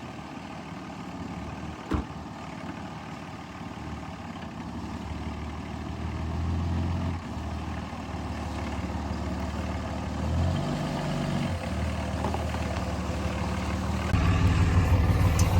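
Vehicle engine running, its pitch changing a couple of times as the revs shift and growing louder toward the end, with a single knock about two seconds in.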